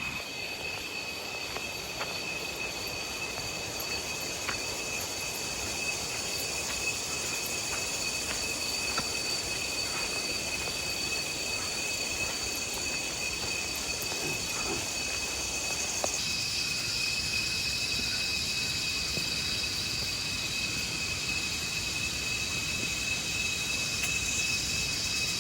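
Steady high-pitched insect buzzing with two unchanging tones. A second, higher hissing chorus joins about sixteen seconds in.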